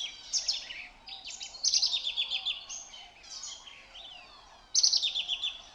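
Birdsong: a bird repeats a bright phrase of rapid notes four times, roughly every second and a half, the loudest about five seconds in, with other birds calling faintly behind.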